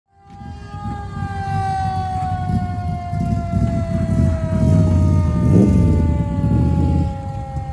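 A siren holding one tone that slowly sinks in pitch, over the loud rumble of a large vehicle's engine.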